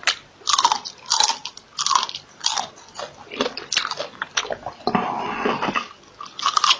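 Close-miked eating: crunchy bites and chewing repeating about every half second, with a longer hissing stretch about five seconds in.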